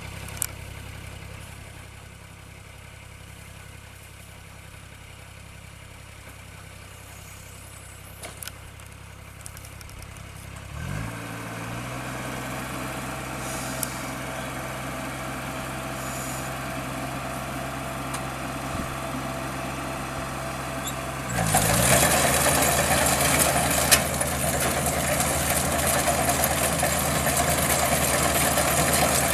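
Kubota DC-35 combine harvester's diesel engine running steadily at low speed. It speeds up and gets louder about a third of the way in. About two-thirds in it rises again to a much louder high-speed run, with a broad mechanical rush over the engine note.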